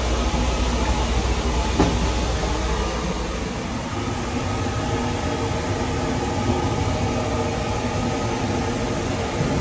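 Sunrise Seto 285-series sleeper train running, a steady rumble and hiss heard inside its toilet compartment. A single light knock about two seconds in, as the toilet lid is closed.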